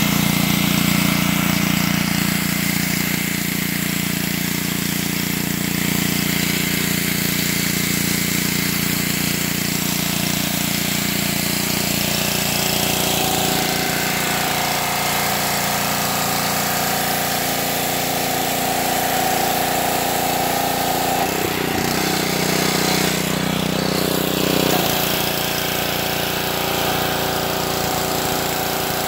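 Gasoline pressure washer running steadily under load, its engine drone under the hiss of the high-pressure water jet spraying leaves. The engine note shifts for a few seconds about two-thirds of the way through, then settles back.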